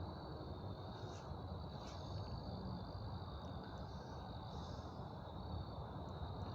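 Steady high-pitched chorus of crickets at night, over a low rumble.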